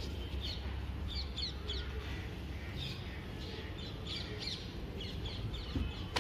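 Birds chirping in short, high, repeated calls scattered throughout, over a low steady rumble.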